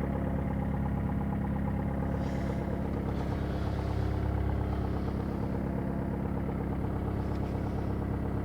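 Renault Megane engine idling steadily after a cold start.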